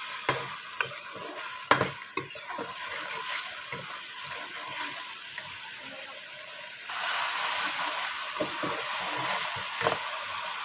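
Onion paste and whole spices frying in hot oil in an aluminium kadai, sizzling steadily as a steel ladle stirs them. A few sharp clicks of the ladle against the pan come in the first two seconds, and the sizzle gets louder about seven seconds in.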